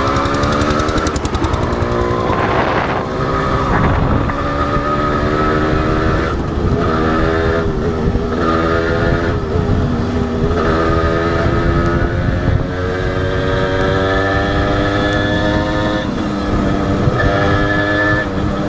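Honda CDI H100S two-stroke single-cylinder engine under way, its revs climbing and then dropping sharply several times as the rider shifts up and eases the throttle. A low rumble of wind runs under the engine.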